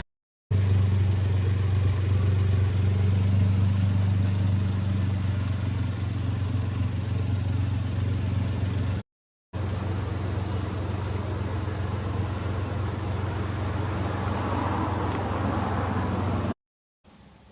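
Suzuki Alto Works (HA36S) 660 cc three-cylinder turbo engine, fitted with a turbo kit and a Trust aftermarket muffler, idling steadily with no revving. The sound drops out abruptly three times for a moment.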